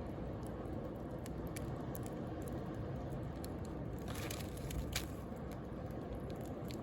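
Wood bonfire crackling with scattered small pops and one louder snap about five seconds in, over a steady low rumble of sea waves.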